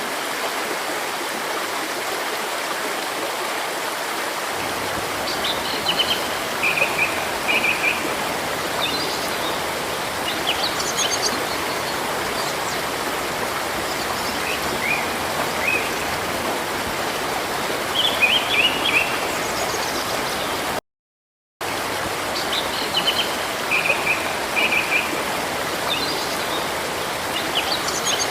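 Steady rush of a flowing river or stream with small birds chirping and twittering over it, starting about five seconds in. About two-thirds of the way through the sound cuts out completely for under a second, then the same water and bird phrases resume.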